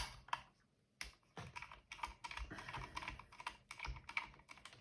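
Light, irregular plastic clicks and taps from a robot vacuum's housing and parts being handled during disassembly.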